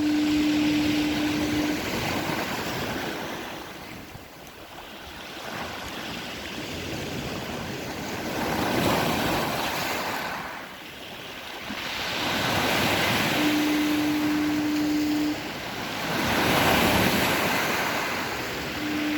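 Lighthouse foghorn sounding one steady note for about two seconds, three times (at the start, about 13 seconds in, and near the end), over heavy surf whose waves surge and wash back every few seconds.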